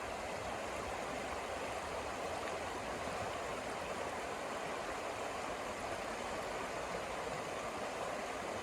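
Steady rushing noise of snowstorm wind, an even hiss that holds level with no single gusts or knocks standing out.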